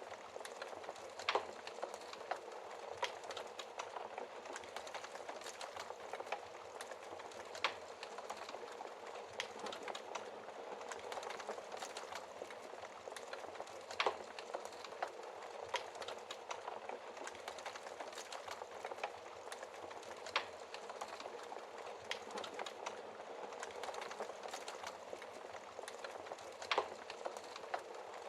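Wood fire burning in a fireplace: a steady fine crackle with scattered sharper pops, a few of them louder.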